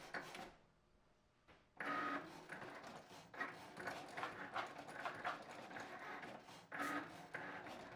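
Cricut vinyl-cutting machine at work: its motors whine in short pitched runs near the start, about two seconds in and near the end, with busy whirring and ticking in between as the blade cuts the vinyl. It pauses briefly after the first run.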